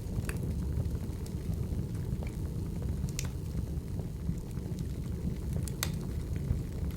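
Burning firewood: a steady low rumble of flames with scattered sharp crackles and pops, the loudest just after the start, about three seconds in and near six seconds in.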